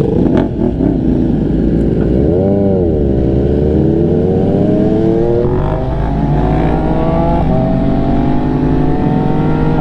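MV Agusta F3 inline three-cylinder engine with an aftermarket exhaust under way. The revs swoop up and back down briefly, then pull steadily higher through a gear, with one upshift about three-quarters of the way through before climbing again.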